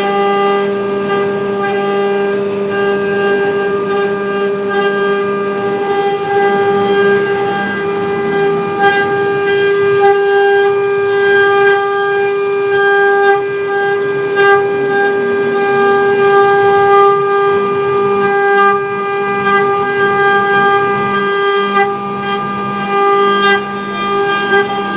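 Four-spindle 1325 CNC router running, its spindle motors giving a steady high whine over the noise of the bits cutting, as the machine carves.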